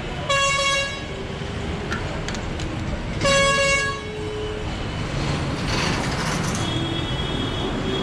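A vehicle horn honks twice, short blasts about three seconds apart, over a steady rumble of engine and road noise.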